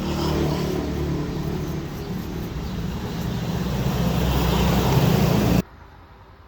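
An electric power tool's motor running steadily, growing slightly louder, then stopping suddenly about five and a half seconds in.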